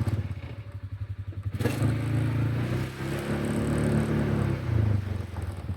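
Engine running with a steady low chug; a little under two seconds in it grows louder and higher, as if revved or working under load, then drops back to the chug shortly before the end.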